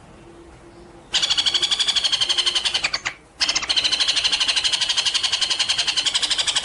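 A songbird's fast trill of evenly repeated high notes, about eight to ten a second, starting about a second in, breaking off briefly near the middle and then running on.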